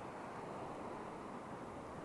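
Steady coastal background noise: an even rush of wind and water with no distinct calls or events.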